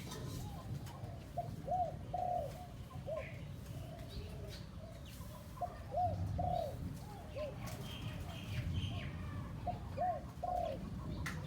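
A dove cooing in three short phrases of arched, rising-and-falling notes, a few seconds apart: the calls of a one-year-old decoy dove. Faint higher chirps and a low background rumble run underneath.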